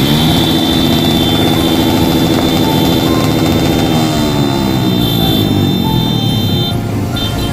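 Motorcycle engine revved up and held at high revs, then falling away as the revs drop from about four seconds in, with a steady high-pitched tone running over it.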